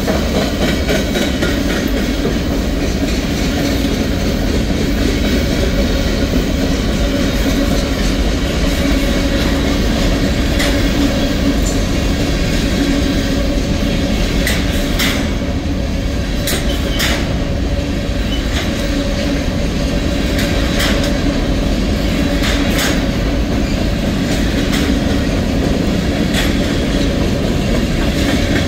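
A freight train's boxcars and covered hopper cars rolling past close by, steel wheels clicking steadily over the rail joints. Several sharp clanks stand out from the steady rumble, a cluster of them in the middle and more a few seconds later.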